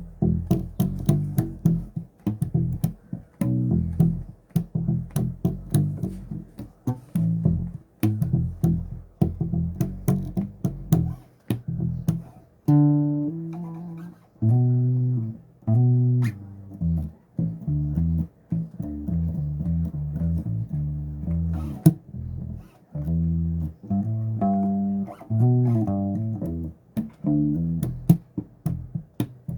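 Solo electric bass guitar playing: a fast run of short plucked low notes, then from about halfway a slower passage of longer ringing notes, then quick notes again near the end.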